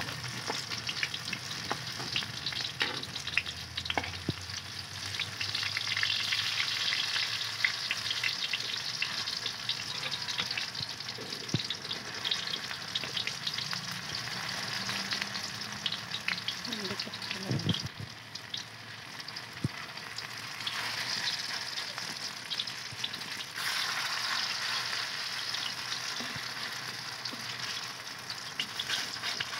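Fritters deep-frying in hot oil in a wok: a steady sizzle and bubbling, with clicks and scrapes of a metal spoon against the wok as the fritters are pushed and turned, and a dull knock a little past the middle.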